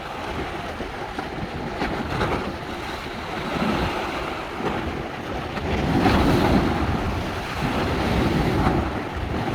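Sea waves washing on a beach with wind buffeting the microphone, growing somewhat louder about six seconds in.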